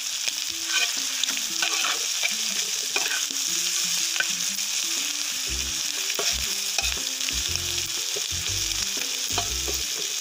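Chicken liver pieces sizzling steadily in hot oil in a shallow black pan. A steel spatula scrapes the pan and stirs through them with repeated short scrapes.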